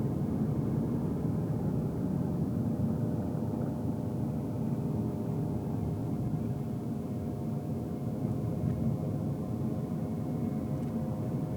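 Steady road and engine noise heard inside a car's cabin while it drives: a low tyre rumble with a faint, even engine hum over it.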